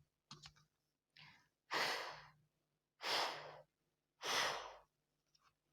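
A woman saying the sound of the letter F, a breathy 'fff' hiss, three times about a second and a half apart.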